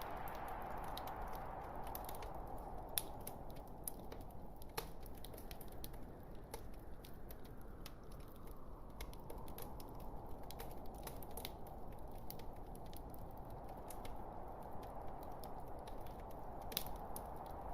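Log fire burning in a fireplace: a steady hiss of flames with scattered small crackles and a few louder pops, one about three seconds in and one near the end.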